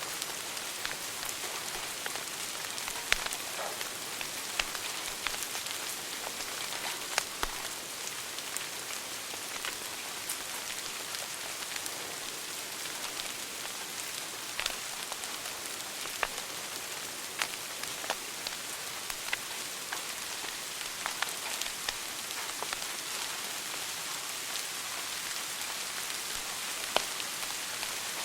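Wood fire burning in a fireplace: a steady hiss with crackles and pops scattered irregularly, and a few louder snaps.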